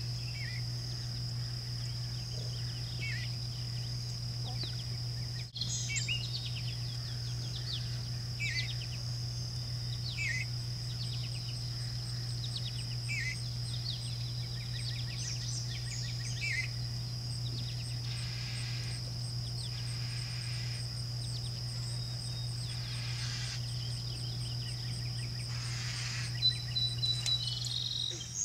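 A songbird giving short falling chirps, about one every second or two, over a steady high insect trill and a low steady hum; near the end a few sharper, louder notes stand out.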